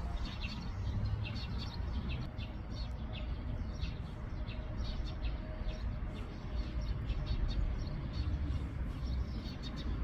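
Small birds chirping on and off with short, high calls, over a low steady rumble of outdoor background noise.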